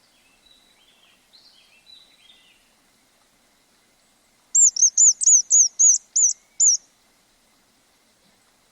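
Songbird singing: a few soft warbled notes at first, then, about four and a half seconds in, a loud run of about eight quick, high, repeated notes lasting about two seconds.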